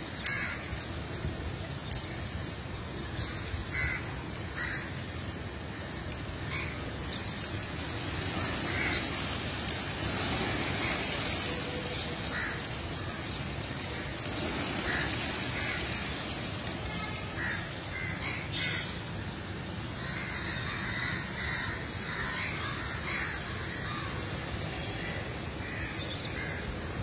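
Short bird calls, repeated every second or so, over a steady outdoor background hiss.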